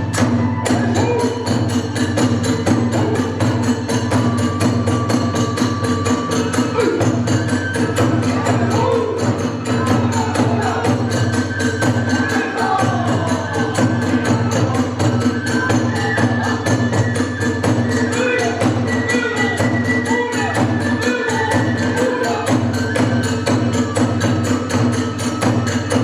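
Kagura ensemble music: drums and small hand cymbals keep up a fast, steady beat under a wavering bamboo flute melody.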